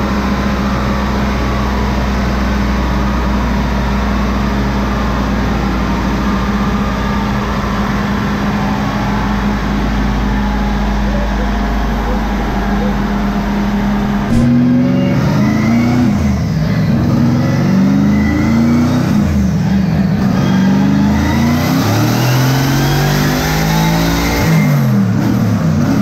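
Porsche twin-turbo V8 idling steadily, then, about halfway through, revved up and down several times, its pitch climbing and falling in repeated sweeps and getting louder.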